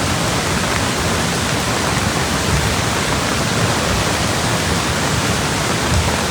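Steady, loud rush of water, as from monsoon flooding and heavy rain.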